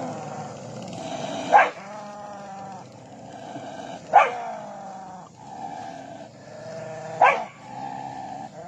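Street dogs making drawn-out pitched calls, broken three times by a loud, sharp bark about every two and a half to three seconds.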